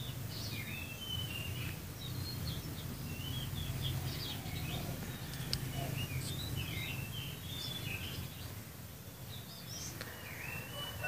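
Small birds chirping and twittering in short, scattered calls, over a low steady background rumble.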